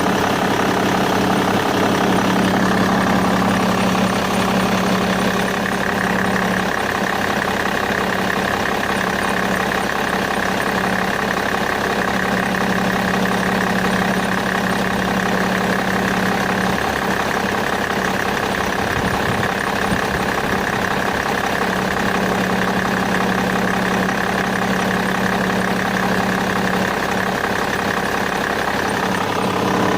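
BMW E61 engine idling steadily, with a steady high tone running over the engine's hum; this is the noise the owner calls strange.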